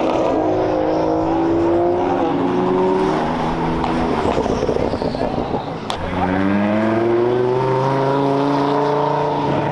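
Car engine revving hard under acceleration, its pitch climbing steadily. This happens twice: from the start and again from about six seconds in, with a rougher stretch between.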